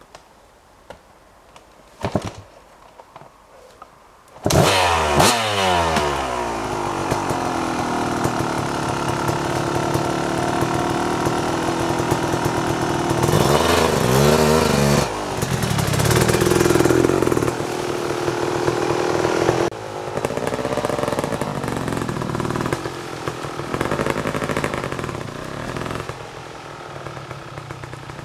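A Kawasaki KX250 two-stroke dirt bike engine starts suddenly about four seconds in and revs up, then runs with its pitch rising and falling. It revs hard again partway through, then drops lower and fades toward the end. A single sharp knock comes about two seconds in, before the engine starts.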